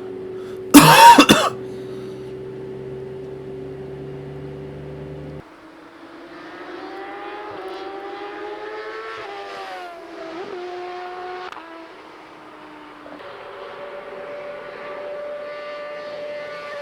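High-speed vehicle engines on a motorway. A steady engine note is cut by a loud, short burst about a second in. Later an engine rises in pitch and drops back in steps as it shifts gears, then settles into a steady note.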